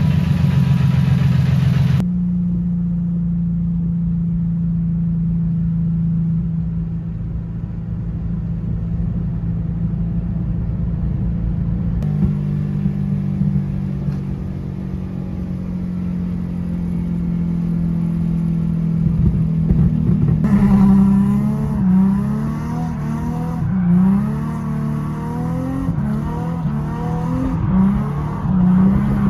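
Drift car's freshly swapped engine running at a steady idle, then revved in repeated short blips from about two-thirds of the way through.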